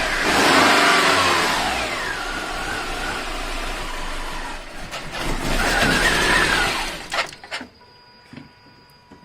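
Subaru Forester's rebuilt flat-four boxer engine running after being reinstalled: it is revved, the revs fall away, it is revved again, then it is shut off about seven seconds in, leaving a few clicks.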